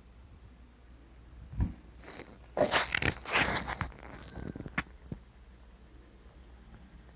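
Handling noise: a knock, then a few seconds of rustling and scraping, ending in two sharp clicks.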